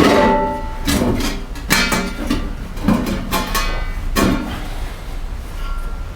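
Sheet-metal stovepipe sections clanking and scraping as they are worked together, with about six ringing metallic knocks over the first four and a half seconds. The sections, from different makers, are slightly mismatched in size.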